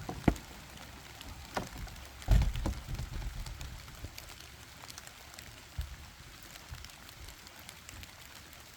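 Light rain pattering steadily, with a few sharp knocks and dull thumps: one near the start, a cluster about two seconds in, and a single one near the middle.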